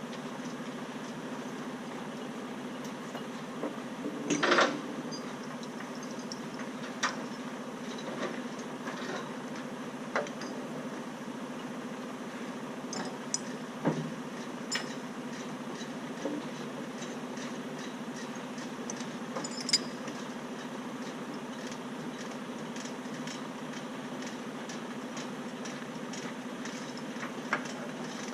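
Heavy diesel engine idling steadily, with scattered sharp metal clanks and rattles, the loudest about four and a half seconds in.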